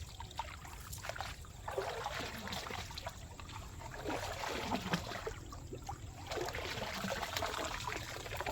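Shallow river water trickling and splashing unevenly.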